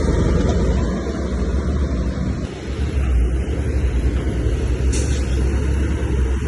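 Heavy diesel earthmoving machinery running with a steady low rumble, with a brief hiss about five seconds in.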